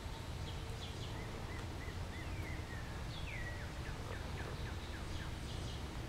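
A songbird calling over a steady low rumble. It gives a run of short chirps, then a long falling whistle about halfway through, then a quick series of short notes.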